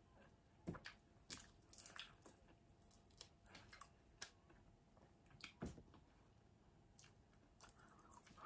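Chewing and crunching on hard-fried fish: irregular crisp crackles and wet mouth clicks, with two dull knocks, one about a second in and one just past the middle.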